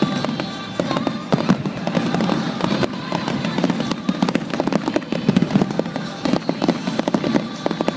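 Fireworks exploding in rapid, irregular succession: many sharp bangs and crackling reports overlapping throughout, with no pause.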